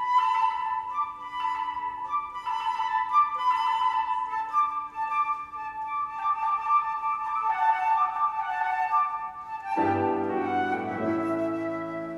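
Concert flute playing an ornamented baroque melody line over piano accompaniment, with a fuller piano chord about ten seconds in that rings and fades.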